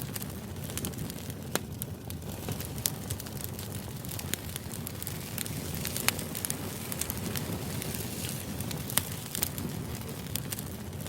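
Steady low background noise with irregular sharp crackles and clicks, several a second.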